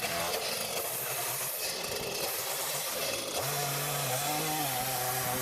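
Gasoline chainsaw running at high revs while sectioning a log. Its engine note wavers for the first three seconds, then settles into a steady, higher pitch.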